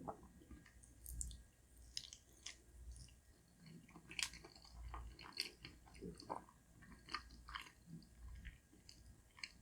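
Close-miked, quiet chewing of soft food: slow jaw movements with many small wet mouth clicks.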